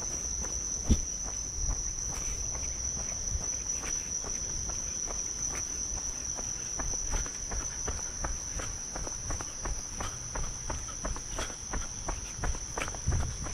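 Steady high-pitched insect chirring, cricket-like, with irregular light clicks and knocks over it; a sharper knock comes about a second in.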